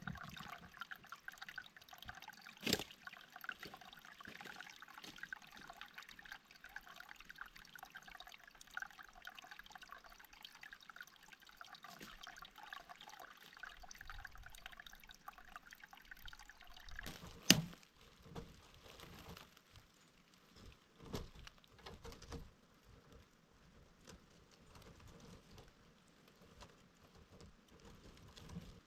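Small flow of water trickling steadily, broken by a sharp knock about three seconds in and a louder one about seventeen seconds in, after which the trickle stops and only faint scattered knocks and rustles remain.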